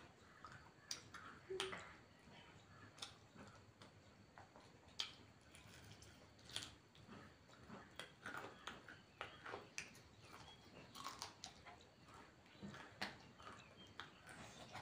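Faint chewing and mouth sounds of people eating rice and chicken curry, with scattered soft clicks and smacks every second or so.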